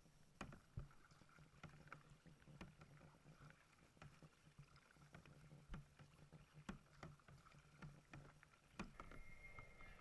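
Near silence: faint kayak paddling, soft scattered ticks and water drips about once a second over a low steady hum. A steady high whine comes in near the end.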